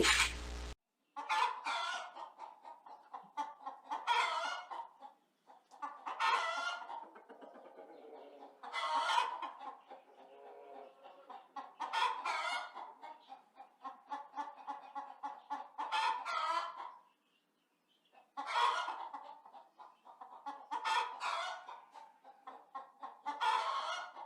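Chickens clucking, in short bursts of calls that come every two or three seconds.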